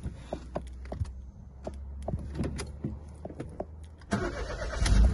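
A series of light irregular clicks, then a 2008 Toyota Yaris engine is cranked by the starter about four seconds in and catches with a brief rev near the end, going straight into a steady idle.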